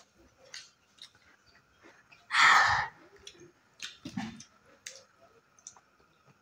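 People chewing and smacking their lips while eating rice and greens by hand, with scattered small clicks. A loud hissing burst about half a second long comes about two and a half seconds in.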